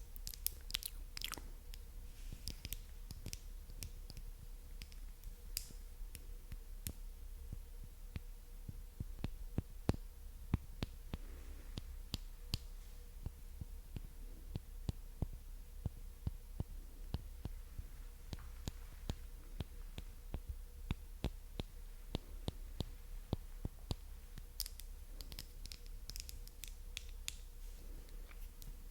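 Close-miked mouth sounds: quick, irregular wet clicks and smacks of the tongue and lips, bunching into denser runs about ten seconds in and again near the end.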